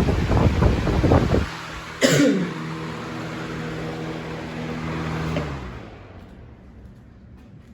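Galaxy box fan running on high with its airflow buffeting the microphone, then switched off with a click about two seconds in. Its motor hum then falls in pitch as the blades coast down, fading out near the end.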